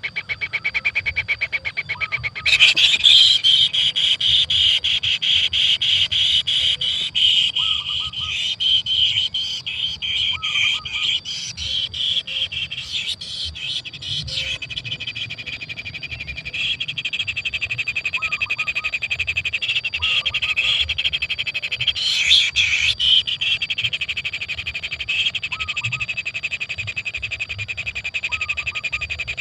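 Kingfisher nestlings giving continuous rapid, pulsing begging calls, the sound of hungry chicks in the nest hole, with short lower calls repeating every few seconds.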